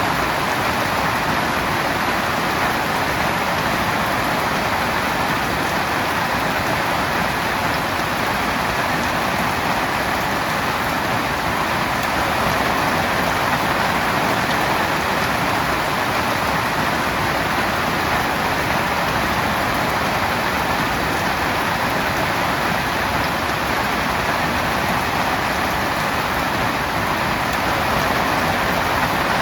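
Heavy rain falling steadily on a tent, a dense, even hiss with no breaks.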